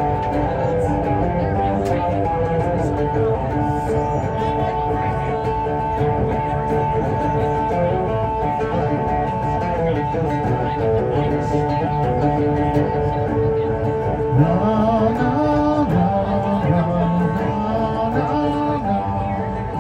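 A live band playing an instrumental break of a rock song, guitar to the fore. About two thirds of the way through, a bass line starts moving up and down in steps beneath it.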